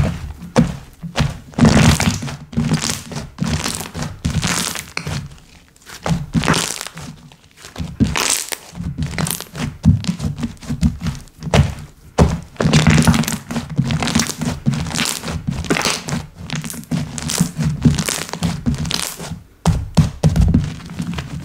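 Slime being squished, pressed and poked by hand, making rapid crackling clicks and soft thunks in busy bursts with short pauses.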